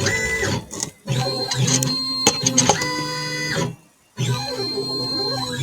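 Stepper motors of a Langmuir Crossfire Pro CNC plasma table driving the gantry through a dry run without the torch firing: a steady whine of several held tones that bends in pitch as each move starts and stops. It runs in three moves, with short pauses about a second in and near four seconds.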